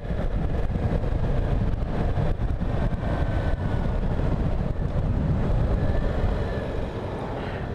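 Yamaha Tracer 700's 689 cc parallel-twin engine running steadily while riding at town speed, heard from a helmet camera, easing off slightly near the end.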